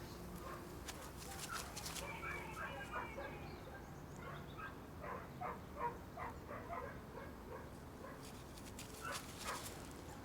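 Six-week-old Weimaraner puppies whimpering, with runs of short, high whines and yips, a few more coming near the end.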